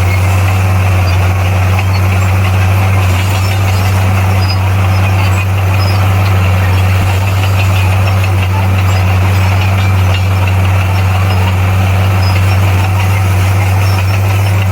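Diesel engine of heavy earthmoving equipment running steadily at a constant speed, a low, even engine hum with no revving.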